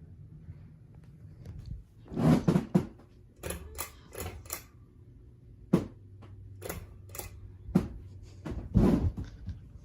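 A run of about a dozen irregular clicks and knocks, loudest around the start and the end, over a faint low steady hum.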